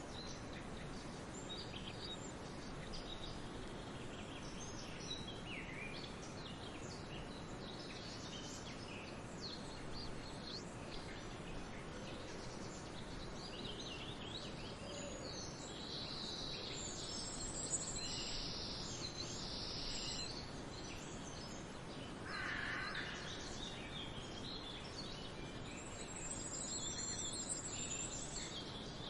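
Many small birds chirping and trilling over a steady outdoor background hiss, with one louder, lower call about 22 seconds in.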